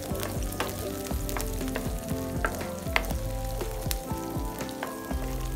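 Green chillies and chopped garlic sizzling in hot oil in a non-stick frying pan, with irregular sharp crackles of spitting oil and a wooden spoon stirring.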